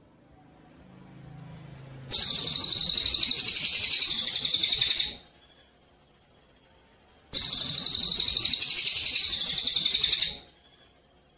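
A songbird giving two fast, rattling high-pitched trills of about three seconds each, with a pause of about two seconds between them.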